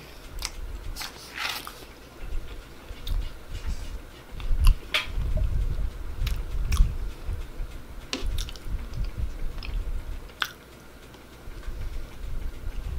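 A person chewing a mouthful of cheesy noodles with mouth closed, close to the microphone: soft chewing with scattered sharp mouth clicks.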